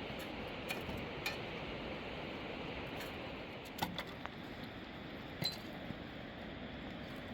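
A few light, sharp clinks and taps, like metal or glass knocking, scattered over a steady background rush.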